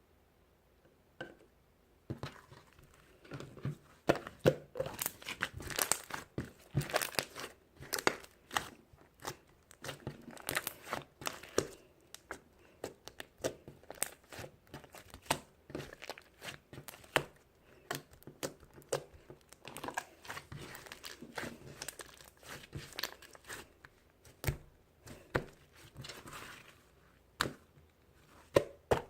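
Rapid, irregular crinkling and rustling, like paper or plastic being crumpled and torn by hand. It starts about two seconds in and goes on in quick clusters, with a brief pause near the end.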